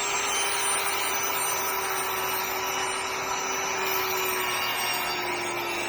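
Power saw running steadily with a high motor whine, its pitch sagging slightly near the end as it cuts thin wooden strips.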